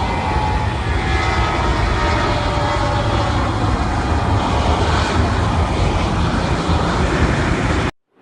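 Airliner engine noise: a loud, steady rumble with a faint whine, fitting a plane on its descent to land. It cuts off abruptly near the end.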